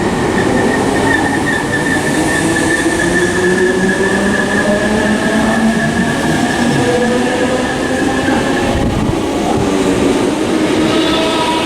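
Class 315 electric multiple units on the move, their traction motors whining in several tones that rise slowly in pitch, over the running noise of the wheels on the rails. A high whine fades out about eight and a half seconds in.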